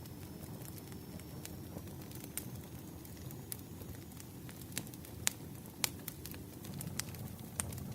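Wood fire burning: a steady low rumble of flames with scattered sharp crackles and pops, the loudest pops a little past the middle.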